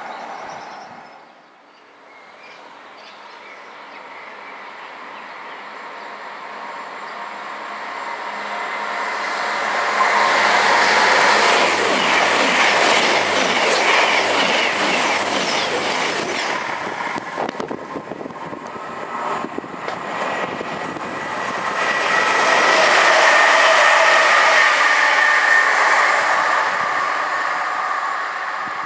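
High-speed electric passenger train running through a station without stopping: a rush of wheels on rail builds to a peak with fast wheel clatter as the carriages go by, dips, then swells again before fading.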